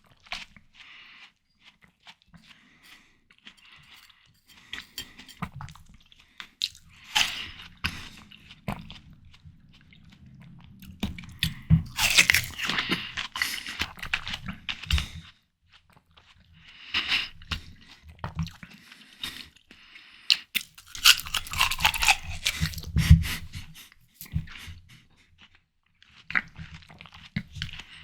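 Close-miked biting and chewing of juicy ripe watermelon: crisp, wet crunches in bursts with short pauses between, loudest about twelve seconds in and again near twenty-two seconds.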